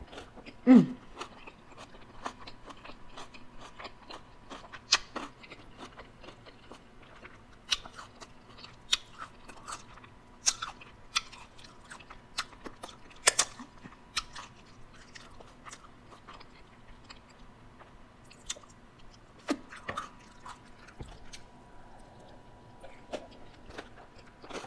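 A person chewing and biting food close to the microphone: irregular crunches and wet mouth clicks throughout, with a brief low hum from the eater about a second in.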